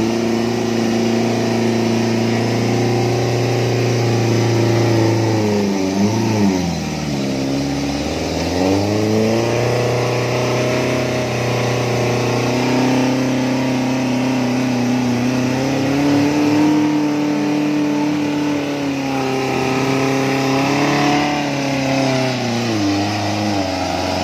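A small off-road 4x4's engine runs hard under load as the vehicle claws up a muddy rut. The revs hold steady, sag and pick up again twice.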